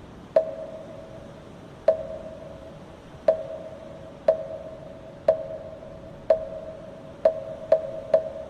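Moktak (Buddhist wooden fish) struck with a mallet, each knock giving a short hollow ring: slow strokes about a second apart that quicken to about two a second near the end. A steady wind-like hiss lies underneath.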